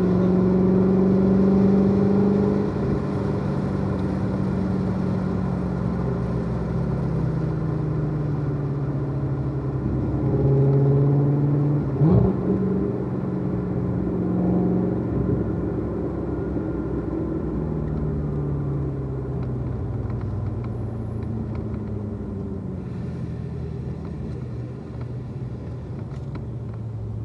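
Chevrolet Corvette C7 Z06's supercharged V8, heard from inside the cabin, running at low revs while the car is driven slowly. Its pitch eases lower overall, with a small rise partway through, and there is a short knock about twelve seconds in.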